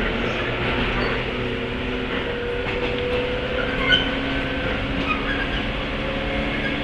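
Running sound inside a JR 103 series motor car (MoHa 102): steady rolling noise with the MT55 traction motors' tones shifting slowly in pitch, brief high squeaks, and a sharp knock about four seconds in.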